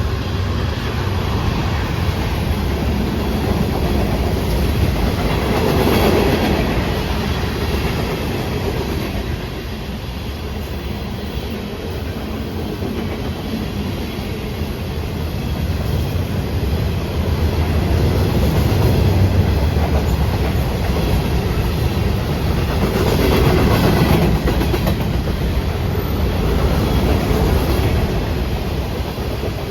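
A Florida East Coast Railway freight train of rock hoppers, tank cars and intermodal cars rolling past: steady steel wheel-on-rail noise with the clickety-clack of wheels over rail joints, swelling louder about 6 seconds in and again near 24 seconds.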